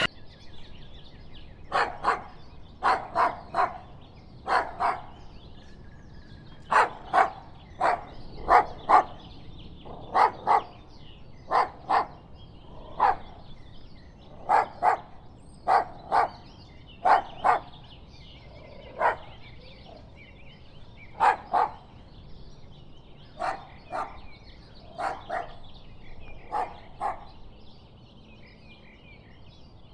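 Dog barking repeatedly, single barks and quick runs of two or three, stopping a few seconds before the end.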